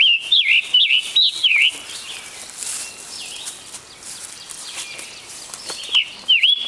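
Scarlet tanager singing: a string of short, hoarse, robin-like phrases, like a robin with a sore throat, in the first two seconds, then a pause, and the song starts again near the end.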